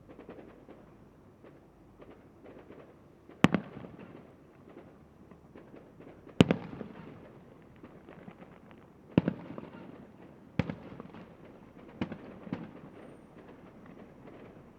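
Fireworks display: six sharp bangs of aerial shells bursting, the two loudest about three seconds apart early on and then a quicker run of four, each trailing off in a rumbling echo, over a steady patter of small crackles.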